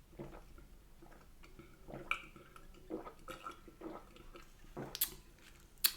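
Close-miked chewing and wet mouth sounds from eating battered fish and chips, with two sharp clicks near the end.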